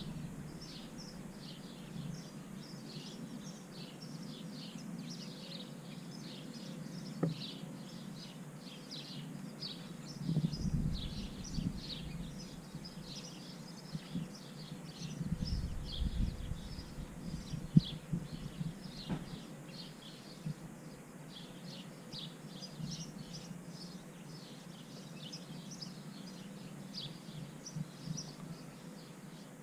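Small birds chirping steadily, many short high calls overlapping. Low rumbles come twice in the middle, with a couple of sharp clicks.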